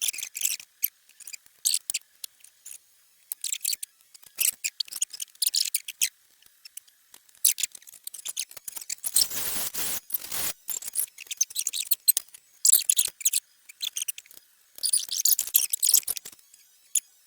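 Ratchet wrench clicking in repeated short bursts while bolts on the catalytic converter and header joint are loosened. A louder scraping noise comes about halfway through.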